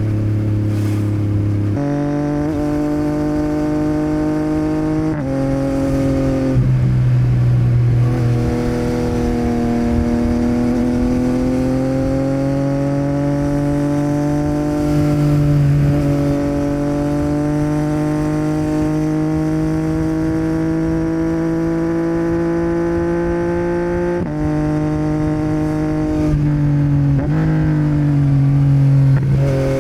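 Yamaha MT-09's three-cylinder engine through a Yoshimura R77 exhaust, heard while riding. The engine note changes pitch abruptly several times as gears are changed, climbs slowly and steadily through the middle, and steps through a few more changes near the end, over a low rumble of road and wind.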